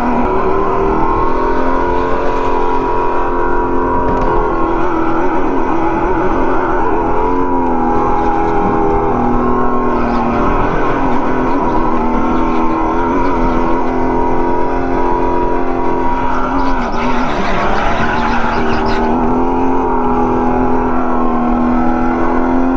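Go-kart motor running at speed through a lap, its steady pitch dipping and climbing again a few times through the corners, with a burst of hiss about seventeen seconds in.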